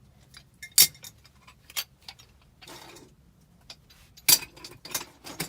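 A handful of sharp, irregular clicks and knocks, the loudest about a second in and again past four seconds, from hard parts and tools being handled while working on a gas furnace.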